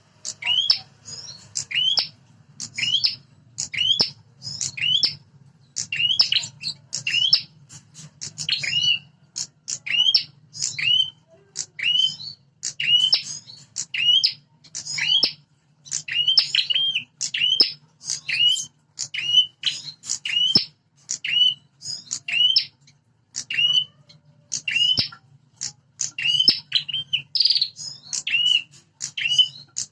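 Prenjak (prinias) giving a rapid, continuous series of sharp, scolding chirps, one or two a second, as in a territorial fight between two birds. A steady low hum runs underneath.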